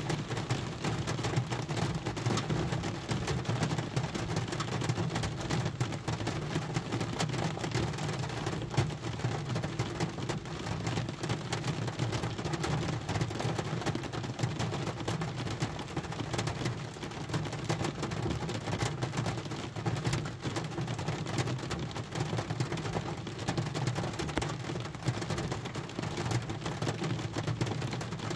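Rain falling on a car's roof and windshield, heard from inside the cabin: a dense, steady patter of countless drops over a low drumming.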